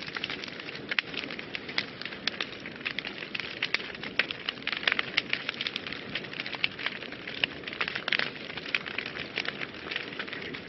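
Wood fire burning in a fireplace, with dense, irregular crackles and pops over a steady hiss.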